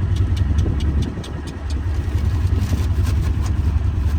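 Engine of an open, doorless utility vehicle running as a steady low rumble, with scattered light clicks and rattles over it; it drops a little in level about a second in.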